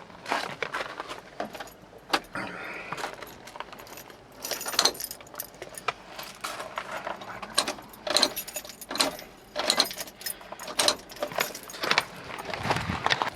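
Irregular light metallic clinks and rattles, like small metal objects or keys being handled, in short clusters throughout.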